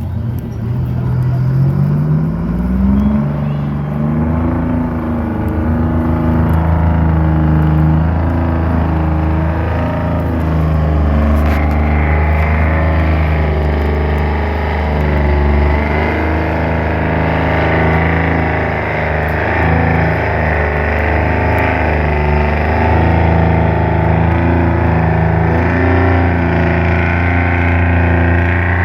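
The Green Ghost pulling truck's Detroit diesel engine revs up over the first few seconds. It then runs at high revs under heavy load, pulling the sled down the track, its pitch dipping and recovering slightly.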